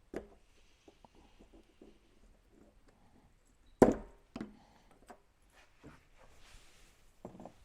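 Scattered clicks and knocks of small metal parts and hand tools being handled during a pump repair, with one sharp, louder knock about four seconds in and a short cluster of knocks near the end.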